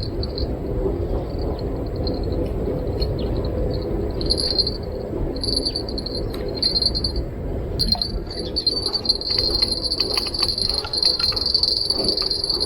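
Insects trilling in a high, even buzz that comes and goes in short spells, then runs on steadily from about two thirds of the way in, over a steady low rush of running river water. Scattered light clicks near the end.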